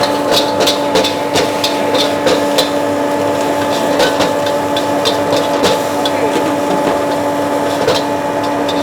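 Metal spatula striking and scraping a wok as fried rice is stir-fried: quick clanks, about two to three a second at first and then sparser, over a steady hum.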